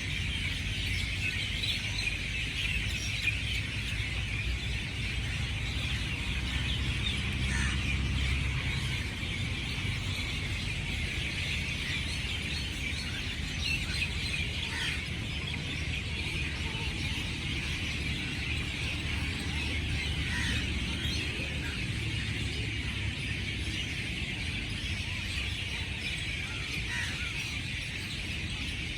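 Outdoor ambience: a dense, steady chorus of high chirping with a low rumble underneath.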